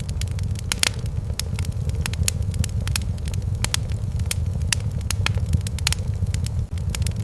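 Wood fire crackling in a fireplace: irregular sharp pops, several a second, over a steady low rumble.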